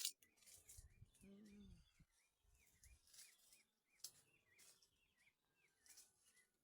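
Near silence with a faint bird calling in the distance, a short chirp repeated about three times a second.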